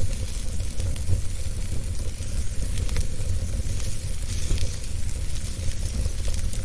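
Wood fire burning in a fireplace: a steady hiss and low rumble of flames with frequent small, irregular crackles and pops.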